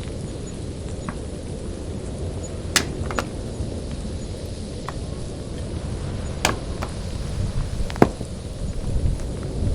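Axe chopping firewood: a handful of sharp, single strikes spaced irregularly a second or more apart, over a steady low rumble of wind on the microphone.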